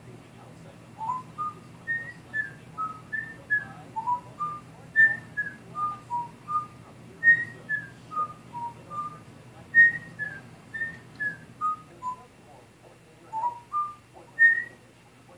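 African grey parrot whistling a tune: a long string of short, clear notes hopping up and down in pitch, about two or three a second, in repeated falling phrases.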